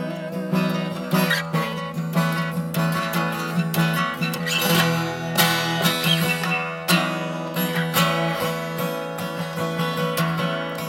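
Instrumental passage of a song: acoustic guitar strummed and plucked over sustained chords.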